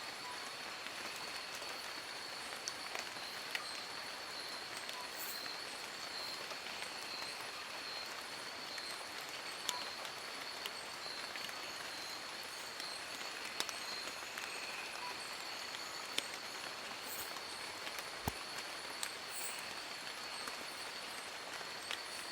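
Steady rain falling on forest leaves: an even hiss with scattered sharper drip ticks, over a constant high-pitched whine.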